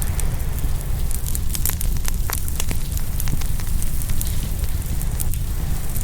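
Open wood fire crackling and popping, with a run of sharper pops about two seconds in, over a low steady rumble of waves on the shore.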